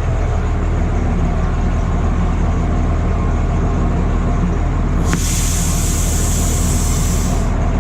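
The small tourist-train locomotive's engine idling with a steady low hum while the train stands with its brake set. About five seconds in, a click is followed by a loud hiss of air venting that lasts about two and a half seconds.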